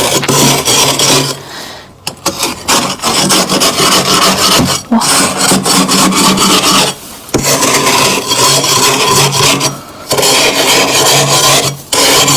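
Frost being scraped off the inside of a freezer in long rasping passes, each a couple of seconds long with short breaks between, over a steady low hum.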